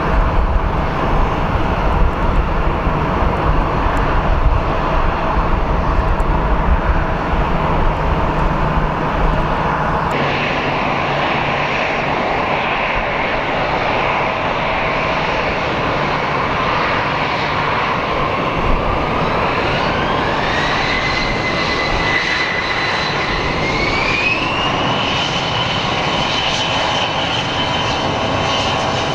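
Jet airliner engine noise: a deep rumble from an Airbus A320 on its landing roll, then, after a change about ten seconds in, a Bombardier CRJ-1000's twin turbofans spooling up for takeoff. The CRJ's whine rises in two steps toward takeoff thrust and then holds high and steady.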